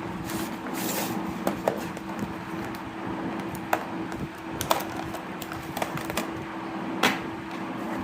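Scattered light clicks and taps, with a brief rustle near the start, as a model car's box and plastic packaging are handled; the loudest click comes about seven seconds in. A steady low hum runs underneath.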